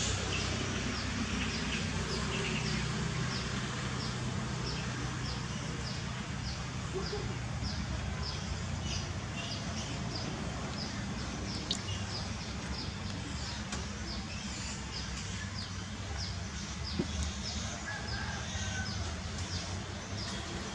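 A small bird calling a short, high chirp over and over, about two to three times a second, over a low steady background rumble.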